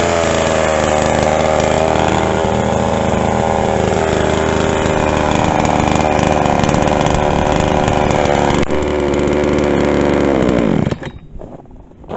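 Pinkway 63cc two-stroke chainsaw engine running at a steady speed after coming down off a rev. About eleven seconds in, it is shut off and winds down quickly to a stop, leaving a few small clicks.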